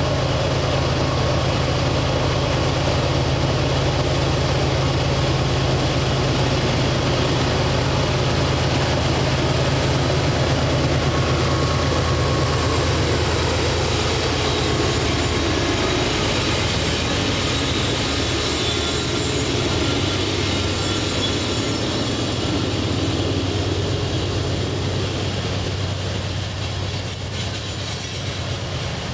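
Two BNSF GE diesel locomotives working hard up a grade, a deep steady engine drone as they approach and pass. After about halfway the engine sound fades and the coal hopper cars roll by with steady wheel and rail noise.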